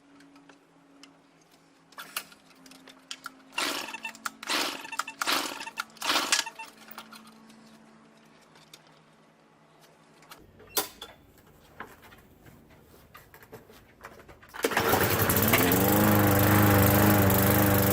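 Murray push lawnmower being pull-started after sitting since last summer: several short yanks of the recoil starter cord, then the engine catches about fourteen seconds in, its pitch rising briefly before it settles into loud, steady running.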